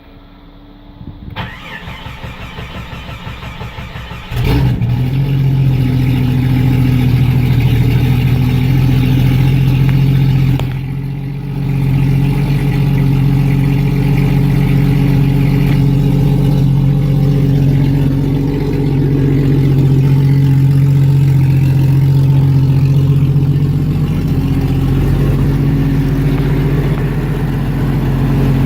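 1994 Jeep Cherokee XJ engine cold-started after sitting three weeks: the starter cranks for about three seconds, then the engine catches and runs loudly with no exhaust fitted. The sound dips briefly about ten seconds in, then the engine settles into a steady run.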